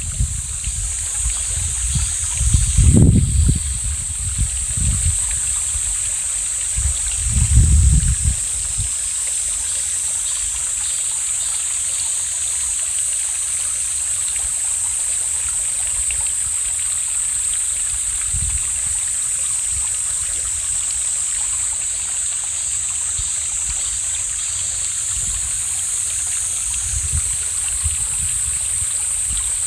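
Mountain stream flowing with a steady hiss. In the first eight seconds or so, a few low gusts of wind buffet the microphone.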